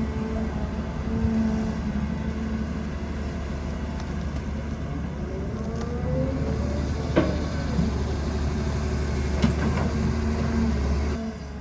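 Excavator's diesel engine running steadily under load, with a rising whine a few seconds in and a couple of sharp knocks, one about seven seconds in and another about two seconds later.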